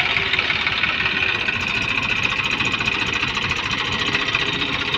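Eicher 333 tractor's diesel engine running steadily.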